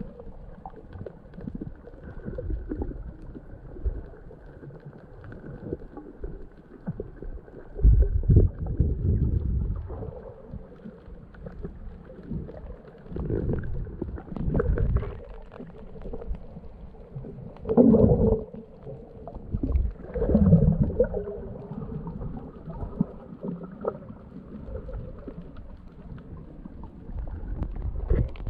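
Muffled underwater sound: low rumbling and gurgling water, dull and cut off in the highs, with several louder surges.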